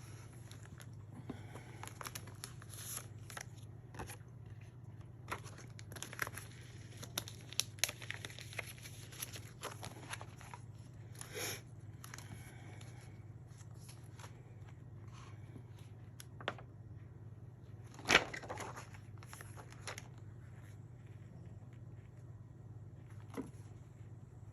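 Scrapbook album pages being turned by hand, with light rustling, crinkling and small taps and one louder page flap about three-quarters of the way through. A steady low hum runs underneath, from a furnace running.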